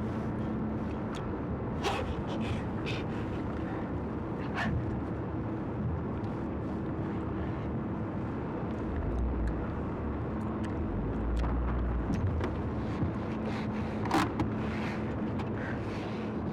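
A car's engine running with a steady hum, with scattered small clicks and knocks and a low rumble around the middle.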